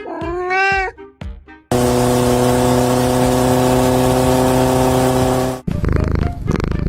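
A short voice-like call that glides up and down, then a loud steady engine-like drone at one unchanging pitch for about four seconds that cuts off suddenly, with music around it.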